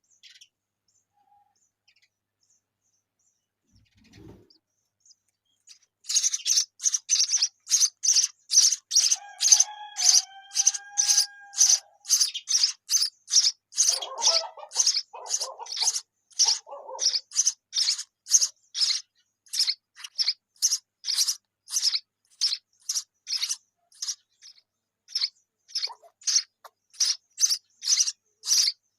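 Sparrows chirping: a steady string of short, high chirps at about two a second, starting about six seconds in.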